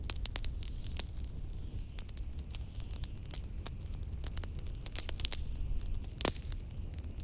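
Fireplace crackling with frequent sharp snaps, one louder pop a little past six seconds in, over a steady low rumble of blizzard wind.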